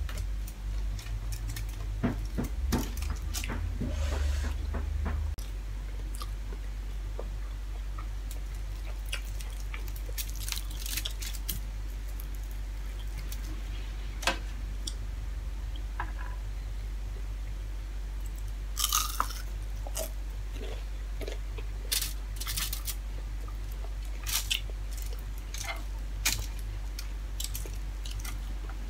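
Close-miked eating by hand: chewing and crunching on rice and fried dried milkfish, heard as scattered sharp clicks and crackles. A steady low hum lies under it, louder for the first five seconds or so.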